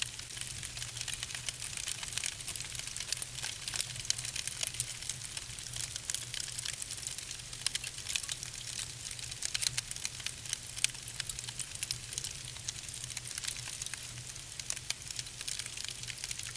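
Wood fire burning in a fireplace: logs crackling with dense, irregular sharp pops over a steady hiss.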